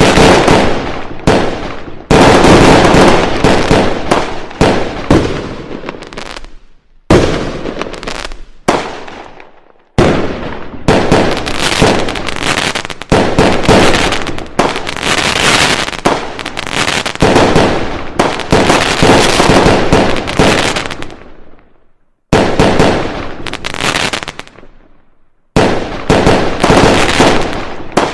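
Fireworks going off: a rapid, loud run of bangs and crackles that stops briefly a few times before starting up again.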